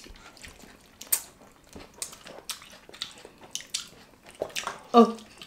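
People chewing and biting fried chicken and grapes close to the microphone, with scattered sharp clicks and smacks of the mouth. A brief voice sound comes near the end.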